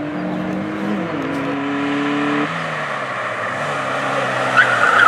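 A Ford Puma sprint car's engine running hard under load on a tarmac stage, its pitch stepping at gear changes, and getting louder toward the end as the car comes nearer.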